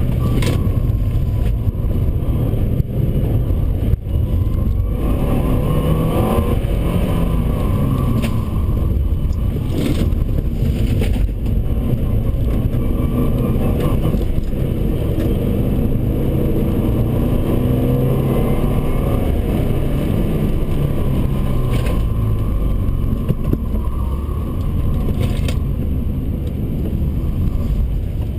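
Subaru Forester 2.5XT's turbocharged flat-four engine heard from inside the cabin, its pitch rising and falling repeatedly as the car accelerates out of and brakes into corners on a wet circuit, with a steady low drive and road rumble underneath and a few brief knocks.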